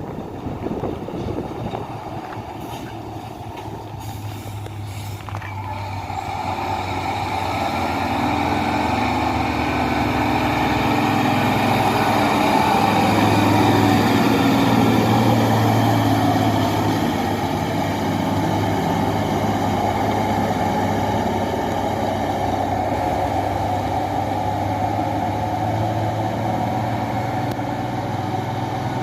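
Loaded dump truck's diesel engine pulling under heavy load up an incline, with a steady low hum that grows louder over the first dozen seconds and then eases a little.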